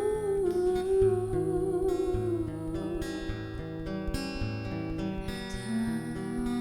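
A solo singer accompanying himself on acoustic guitar, performing a slow, sad song. A long wavering vocal note is held for the first two seconds or so and a lower note comes in near the end, over steadily strummed chords.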